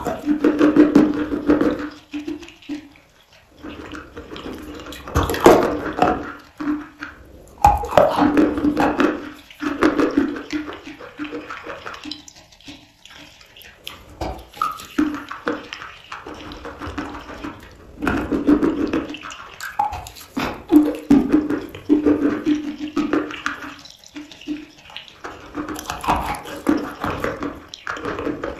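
Close-miked chewing of chalk and soaked clay: crunching bites and wet, squishy mouth sounds as the paste is worked, coming in loud bouts every second or two with short pauses.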